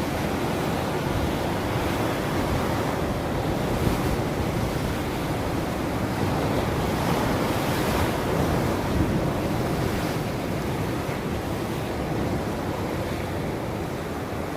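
Ocean surf: a continuous rush of breaking waves that swells and eases, building twice to a louder, hissier wash.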